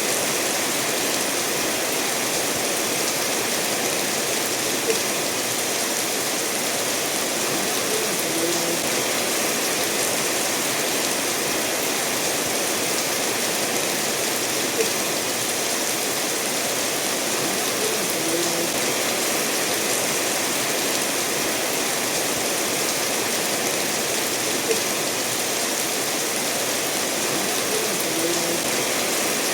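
Steady rain falling together with a stream running over stones, an even hiss with no let-up. A brief sharper drip stands out about every ten seconds.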